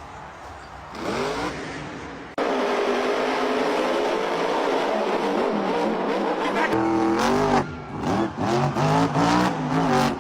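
Monster truck engine revving hard, its pitch rising about a second in. After an abrupt jump two and a half seconds in to a loud, steady rush of noise, the engine revs up and down in several quick blips from about seven seconds in.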